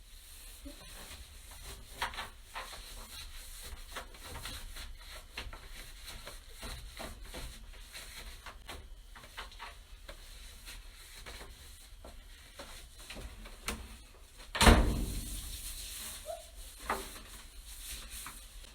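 Wiping and rubbing a washing machine's surfaces by hand with a disposable cleaning wipe, with scattered small knocks and clicks. One loud thump comes about fifteen seconds in.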